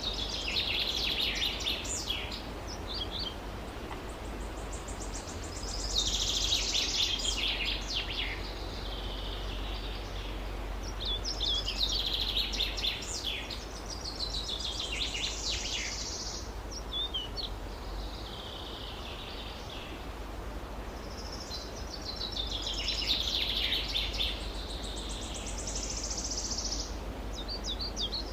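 A songbird singing short, high, twittering song phrases, each a few seconds long, repeated every few seconds over a steady low rumble.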